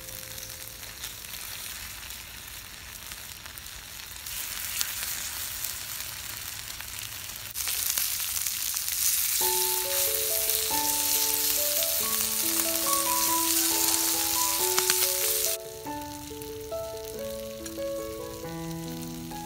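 Sliced pork belly sizzling as it fries on a hot griddle pan over a portable gas burner: a steady crackling hiss that grows louder about four and eight seconds in, then drops back about fifteen seconds in.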